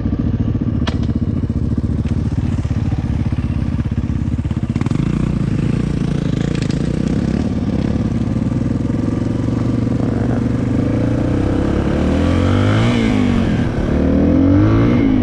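Yamaha TT-R trail bike's single-cylinder four-stroke engine running with a rapid, even putter, then revving up and down several times near the end. A sharp click about a second in.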